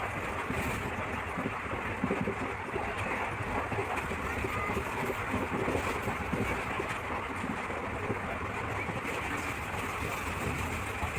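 Steady rumble and rushing noise of a moving passenger train heard from inside the carriage.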